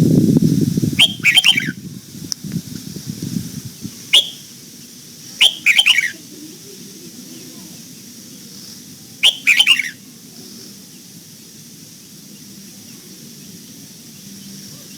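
Red-whiskered bulbul calling in short, separate chirpy phrases, about five over the first ten seconds, with a pause after the last. A low rumbling noise sits under the first few seconds.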